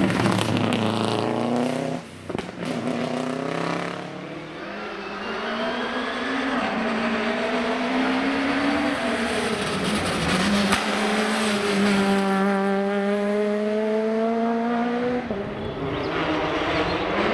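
Rally car engines at high revs. One car's note falls away in the first two seconds, then another accelerates hard, its engine note climbing and dropping back at gear changes about ten and fifteen seconds in.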